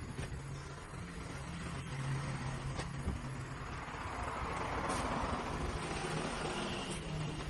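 A motor vehicle running with a steady low hum; its noise swells to its loudest about five seconds in and then eases off, with a few light clicks.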